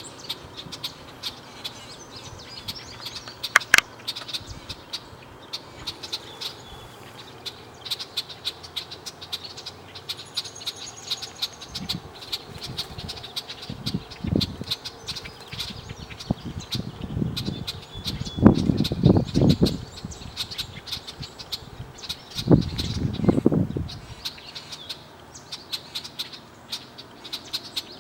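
Red-winged blackbirds calling: a run of short, sharp chip notes repeated all through, with one louder note a few seconds in. A low rumble comes and goes in the middle stretch and is the loudest sound there.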